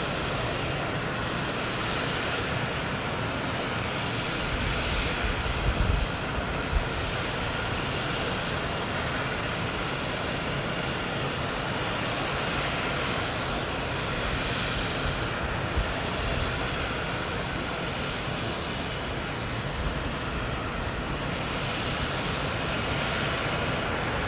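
Jet engines of an Airbus A321neo airliner on landing approach: a steady rushing noise. A few low thumps come about five to seven seconds in.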